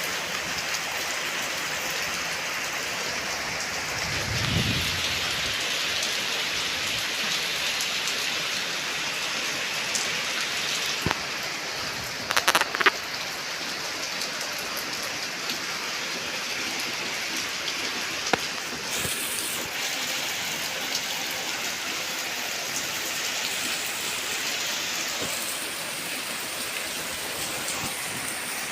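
Heavy rain falling steadily, with a brief low rumble about four seconds in and a few sharp knocks about twelve seconds in.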